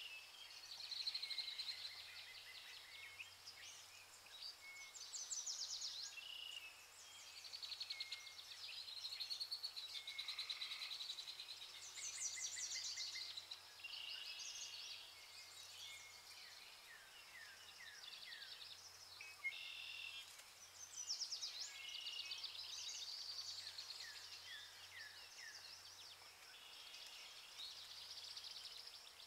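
A dense, faint chorus of many birds calling over one another: fast trills, chirps and short falling whistles, with no pause.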